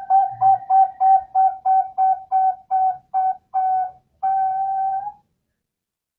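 Zebra dove (perkutut) cooing: a run of short, even notes about three a second, slowing slightly, ending in one longer held note about four seconds in.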